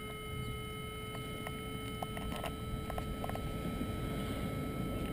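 Faint handling noise: low rustling with a few soft clicks, over a steady thin electronic whine of several high tones.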